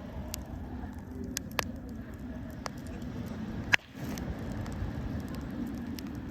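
Wood campfire crackling, with scattered small pops and one sharp, loud pop near the middle, over a steady low rumble.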